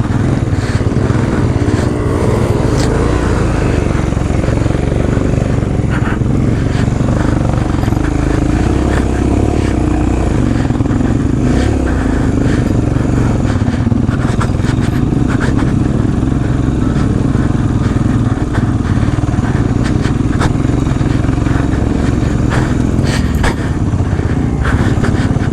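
Royal Enfield Himalayan's single-cylinder engine running steadily at low revs, with scattered clicks and clatter.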